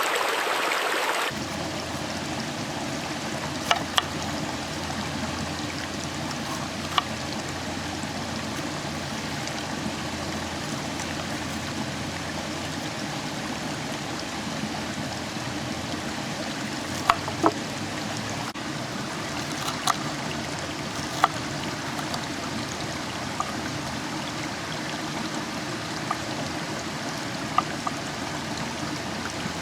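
A steady rushing hiss with a few scattered sharp pops, as of a campfire crackling. A louder, brighter hiss cuts off about a second in.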